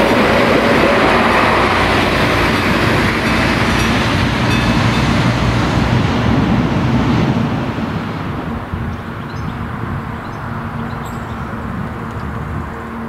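Regional passenger train running over a level crossing, its wheels and running gear loud for about the first seven seconds. It then fades as it moves away, leaving a quieter steady hum.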